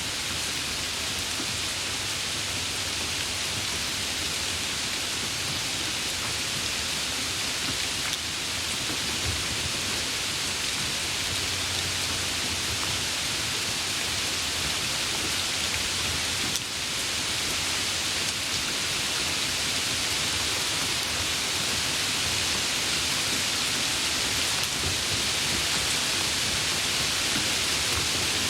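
Steady, even rain hiss with no breaks.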